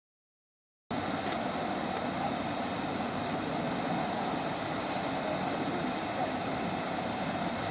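Steady hiss of steam from a steam locomotive, cutting in suddenly about a second in.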